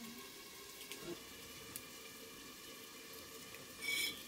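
Faint, steady sizzling of food frying in a pan on a wood-fired mud stove, with a few small clicks and a short ringing clink near the end.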